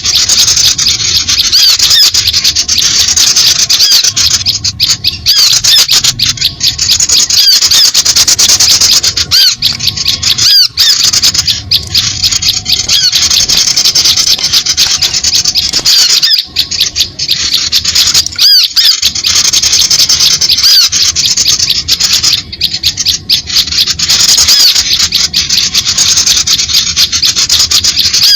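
Noisy chattering of many small birds: dense, overlapping high-pitched chirps with no break, played as a lure call to draw small birds in.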